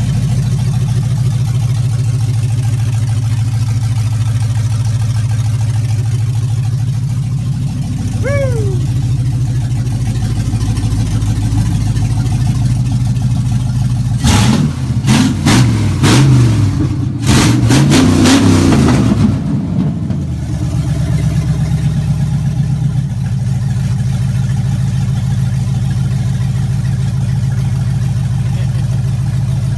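GM LS V8 in an F100 running on open headers with no exhaust, idling steadily on its first start-up. It is revved several times in the middle, with loud sharp cracks from the open headers, then settles back to idle.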